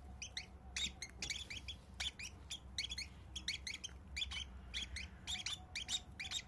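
Baby birds chirping in quick, high, repeated calls, several a second: nestlings begging while the parent feeds them.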